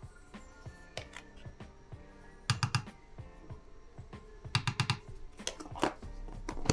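Two short runs of rapid light clicks, about two and a half and four and a half seconds in, over soft background music.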